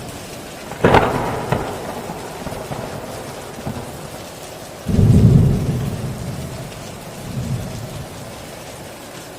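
Steady heavy rain with thunder: a sharp crack about a second in, and a deep rumble about halfway through that fades away over a few seconds.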